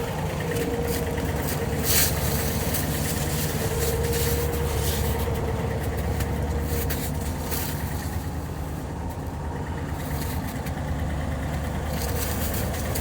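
1960s Ford fire truck engine idling steadily, with a single sharp knock about two seconds in.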